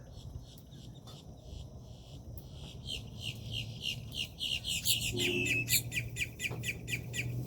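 A songbird calling a rapid series of short, down-slurred notes, about three or four a second, growing louder through the second half and stopping near the end, over a low steady hum.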